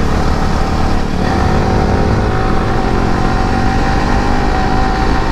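Yamaha R15's single-cylinder engine running hard at speed on a top-speed run, its note holding a steady high pitch from about a second in. Heavy wind rumble on the microphone runs under it.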